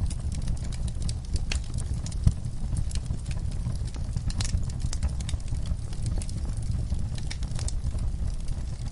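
Log fire burning with a steady low rumble and irregular crackles and pops from the burning wood, one louder pop about two seconds in.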